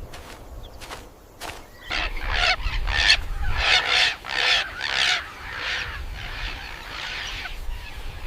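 A quick run of harsh animal calls, about two a second, starting about two seconds in and trailing off into softer calls in the last couple of seconds.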